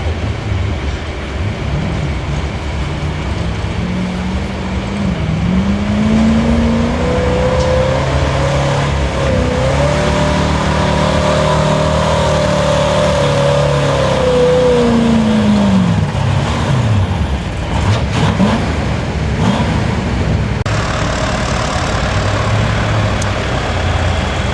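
Pulling truck's engine at full throttle during a pull: its pitch climbs over the first several seconds, holds high, then falls off about fifteen seconds in as the truck slows under the weight sled.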